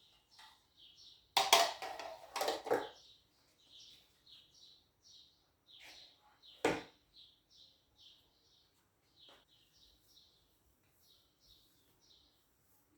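Small birds chirping in quick, repeated high calls throughout, with a short burst of kitchen clatter about a second and a half in and a single sharp knock near the middle.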